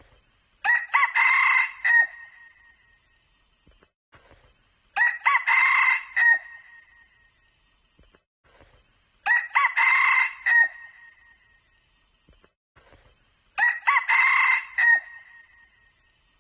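Red junglefowl cock crowing: four short crows of about a second and a half each, repeated at even intervals about four seconds apart.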